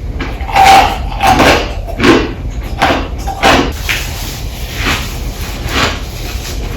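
A person biting into ice close to the microphone, a series of sharp crunches, about one a second or a little faster.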